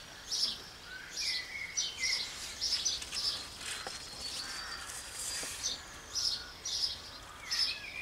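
Small birds chirping: short, high chirps repeating in irregular runs about twice a second, with a few lower whistled notes mixed in, over faint outdoor background.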